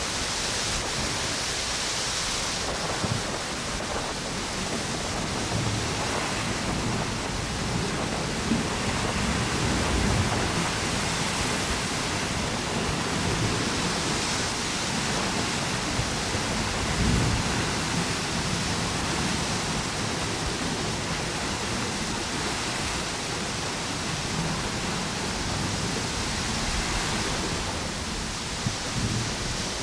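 Ocean waves washing onto a beach under a strong, gusting wind, a steady rushing noise with irregular low rumbling gusts.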